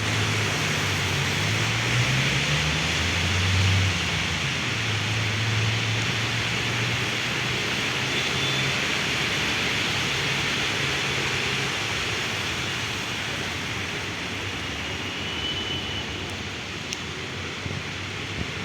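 Heavy rain falling steadily. A vehicle engine hums low underneath for the first half, wavering in pitch, then fades away.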